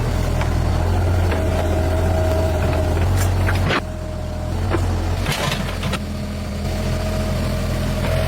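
A vehicle engine running steadily with a low hum, dropping in level about four seconds in, with a few sharp knocks along the way.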